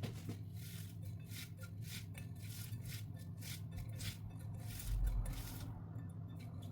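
Hands kneading and squeezing boiled potato with spices in a bowl: a run of uneven, soft rubbing and squishing strokes over a low hum, with a dull thud about five seconds in.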